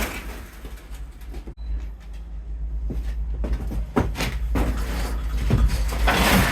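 A few separate knocks and thuds over a steady low rumble.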